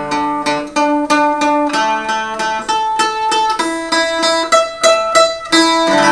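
Bohm waldzither strung as an eight-string Irish bouzouki (courses tuned G, D, A, E), picked as a run of single notes moving along the fingerboard, several a second, each note ringing on. The notes sound in tune up and down the neck: the intonation is quite good.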